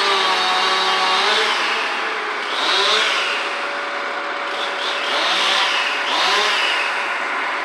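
Chainsaw running, its engine speeding up and dropping back about four times.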